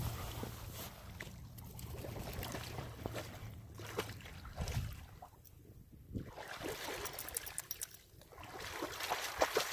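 A dog wading in shallow river water, with irregular splashing and sloshing.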